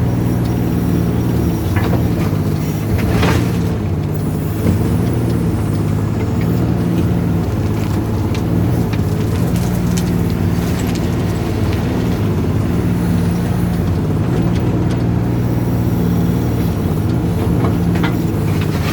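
Volvo mini excavator's diesel engine running steadily while digging, its note dipping and recovering slightly as the hydraulics take load, with a few short scrapes or knocks.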